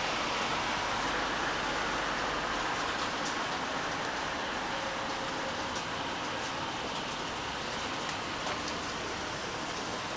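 Steady rain falling, with a few scattered drops ticking sharply now and then, mostly in the second half.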